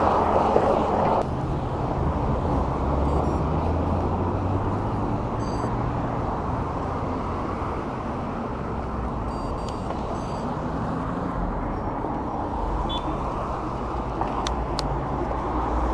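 Wind and road noise from riding an e-bike beside traffic, with cars going by. A louder rush of wind cuts off about a second in.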